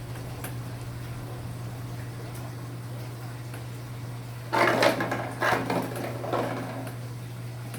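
Small Enxuta Junior 2 kg washing machine running, its motor giving a steady low hum, with a louder stretch of noisy sloshing and rattling for about two seconds past the middle.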